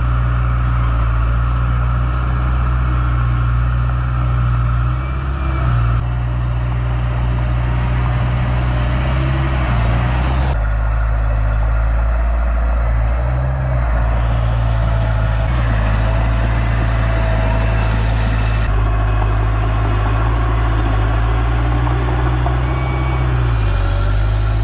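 Heavy diesel engines of construction machinery, a dump truck and bulldozer, running steadily with a deep low drone. The sound changes abruptly three times, as if cut between shots.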